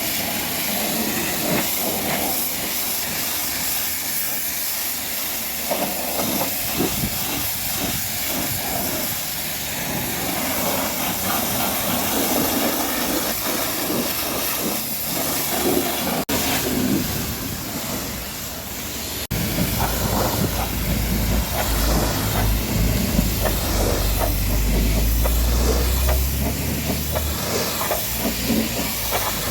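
High-pressure water spray hissing steadily against a truck's body. After a cut about two-thirds of the way in, a low rumble runs under the spray for several seconds.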